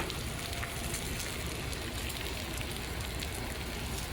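Steady sizzling and crackling of taco meat frying on a griddle, over a steady low hum.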